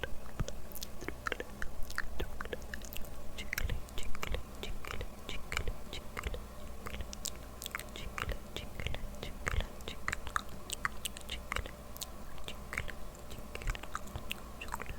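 ASMR mouth sounds: a person's lips and tongue making quick, irregular wet clicks and smacks.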